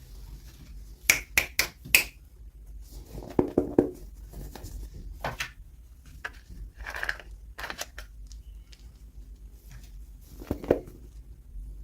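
Hard plastic clicks and taps from hands handling miniature toys and their packaging: four sharp clicks in quick succession about a second in, a duller knock a little later, and scattered ticks and a brief rustle through the rest.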